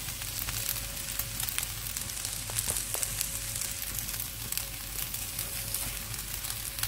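Rice and diced zucchini frying in olive oil in a pan: a steady sizzle with scattered small crackles.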